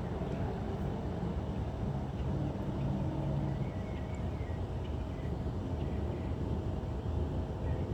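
Boeing 757-300 jet engines at climb power: a steady low rumble with a faint steady hum above it.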